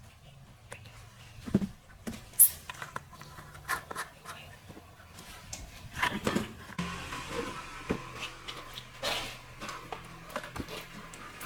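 Scattered light clicks and knocks, with a stretch of soft rubbing noise about seven seconds in.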